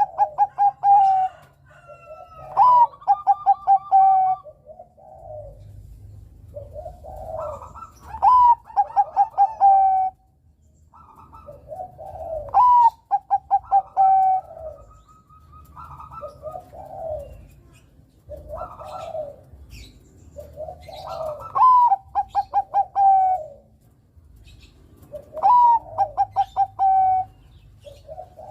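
Bangkok-line zebra dove (perkutut) cooing: song phrases every four to five seconds, each a rising note followed by a quick run of short staccato coos, with softer coos between phrases.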